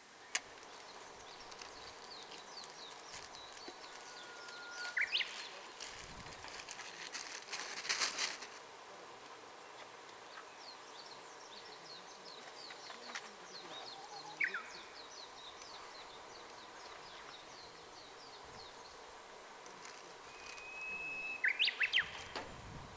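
Birds singing outdoors: a constant faint high twittering, with three louder whistled songs, each a held note followed by a few quick rising notes, about five seconds in, near the middle, and near the end. A brief clatter of sharp clicks comes about eight seconds in.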